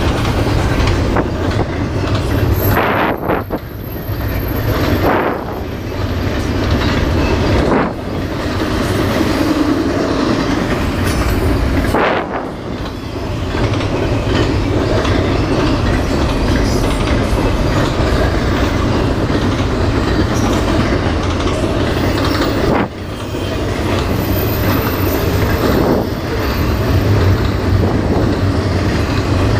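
Double-stack intermodal container train passing close by: a steady rumble and clatter of the well cars' wheels on the rails. A thin high whine comes in twice, the first a few seconds in and the second near the end.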